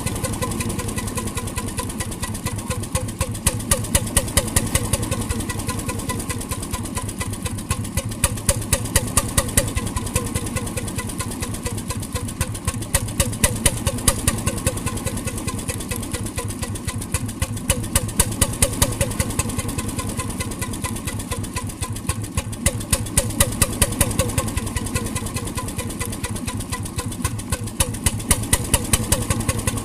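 1921 RSM 3½ HP hotbulb marine engine running with a rapid, even knocking beat that swells louder every four to five seconds.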